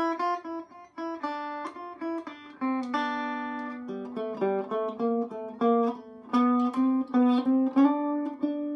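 Electric Vega banjo picking a single-note melody, one plucked note after another at about two or three a second, ending on a held, ringing note near the end.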